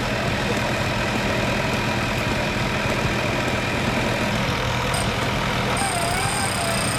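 Off-road 4x4 vehicle engine running steadily at low revs, with a thin wavering tone joining near the end.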